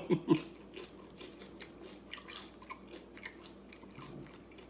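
Close-mic chewing of crunchy Flamin' Hot Doritos tortilla chips loaded with nacho toppings: faint, irregular crunches and wet mouth clicks.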